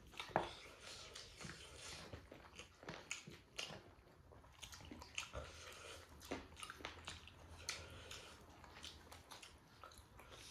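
A person chewing and biting into chicken close to the microphone: irregular faint clicks and smacks, a few a second.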